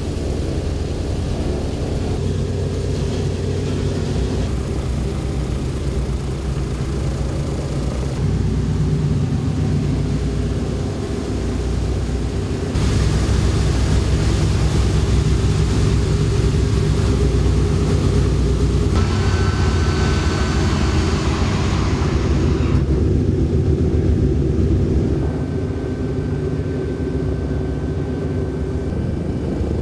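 The B-17 Flying Fortress's radial piston engines running with a steady, heavy drone. It is louder from about 13 s to 23 s, and its tone shifts abruptly several times.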